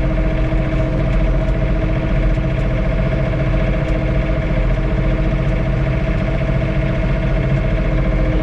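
John Deere 3046R compact tractor's diesel engine running steadily, heard from inside the cab, with a constant whine over it from the engine or hydraulic pump while the attachment is held down to scrape ice.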